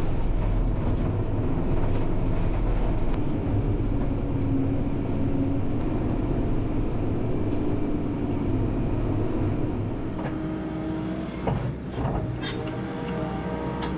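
Heavy equipment's engine running steadily, with a few sharp metallic clanks near the end.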